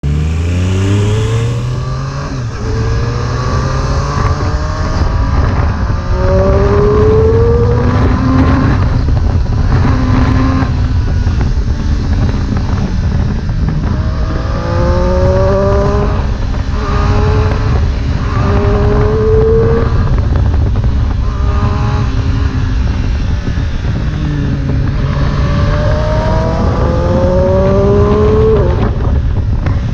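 Triumph Street Triple 765 S inline-three engine through an Arrow exhaust, revving up hard through the gears. The pitch rises and drops back at each shift, again and again.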